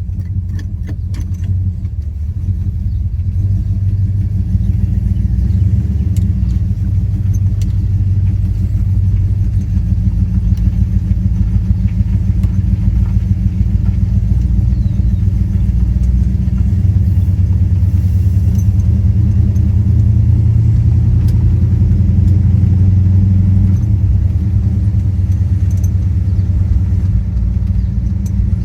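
1970 Plymouth Road Runner's 383 Magnum V8 running with a steady, low rumble, its pitch shifting slowly up and down. A few light clicks come in the first couple of seconds.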